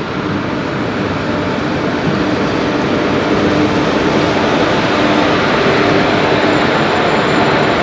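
Passenger train rolling slowly past through floodwater over the tracks: the locomotive's wheels push through the water, then the coaches rumble by, a steady rushing noise that grows louder.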